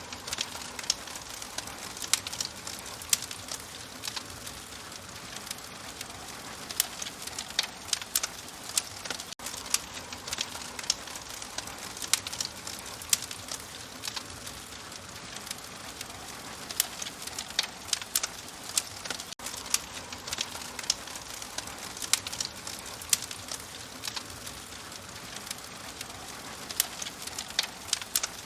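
Wood fire crackling in a fireplace: frequent, irregular sharp pops and snaps over a steady soft hiss.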